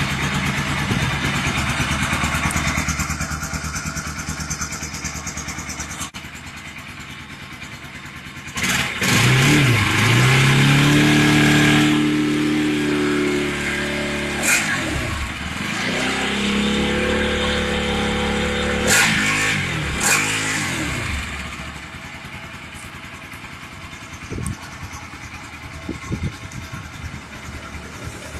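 Motorcycle engine running, revved up and let back down twice in the middle, with a few sharp clicks.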